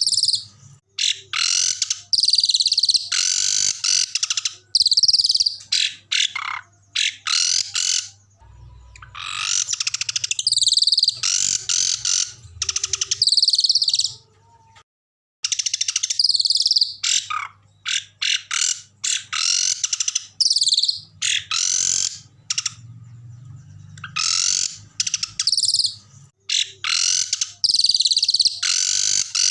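Small songbirds singing loud, fast, harsh phrases and rolling trills, high-pitched and in quick bursts: a bird-song compilation for training songbirds, broken by a brief total silence about halfway through.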